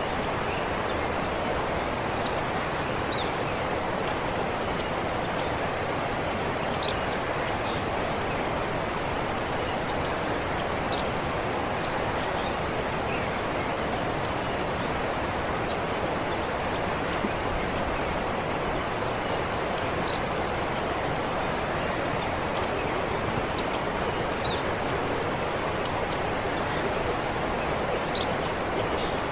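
Forest stream running steadily, with birds giving many short, high chirps throughout.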